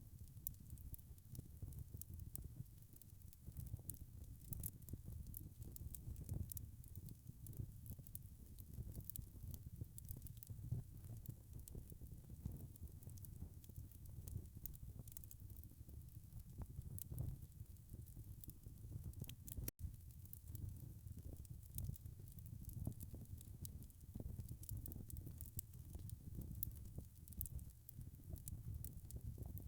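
Log fire crackling, with frequent small sharp pops over a low, steady rumble of flame. The sound cuts out for an instant about two-thirds of the way through.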